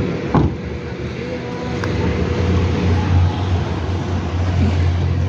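A car engine idling steadily, with a brief knock about half a second in.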